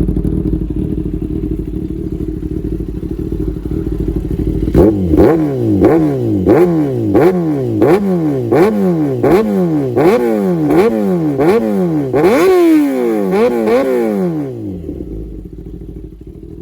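2019 Kawasaki ZX10R inline-four engine running through an Arrow Competition EVO full titanium exhaust: idling steadily, then revved about a dozen times in quick succession, each rev rising sharply and falling away. A longer rev and a few smaller blips follow before it settles back to idle, quieter near the end.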